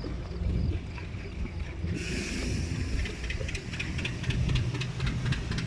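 An engine running steadily with a low rumble. About two seconds in, a hiss like escaping steam starts suddenly, followed by rapid, regular ticking.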